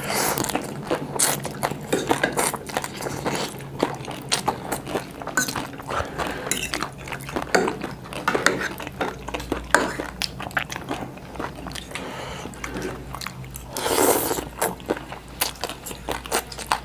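Close-up eating sounds: irregular crunching and chewing, with light clinks of cutlery against a dish, and one longer, noisier sound near the end.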